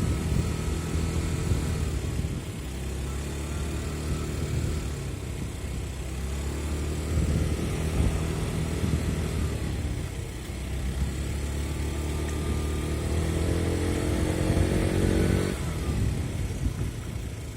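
Yamaha Gear 4T scooter's four-stroke single-cylinder engine running on the move, its note shifting with the throttle and rising in pitch near the end. It carries an extraneous noise that the owner says turns into a resonance as the revs rise.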